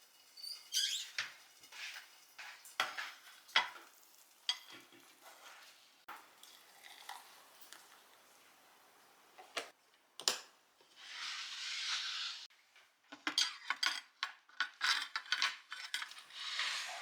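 Kitchen utensils and dishware clinking and knocking during cooking prep, with two stretches of steady hiss, one in the middle and one near the end.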